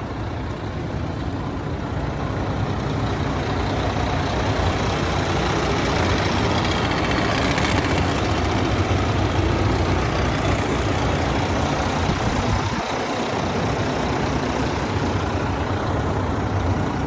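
Truck engine idling steadily, a continuous low hum with a broad rush of noise over it.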